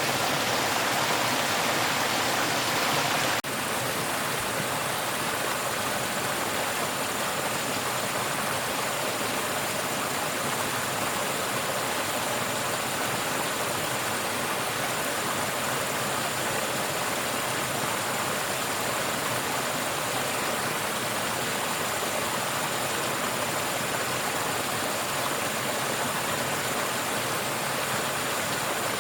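Steady rushing water, like a stream or small waterfall, dipping slightly in level about three and a half seconds in.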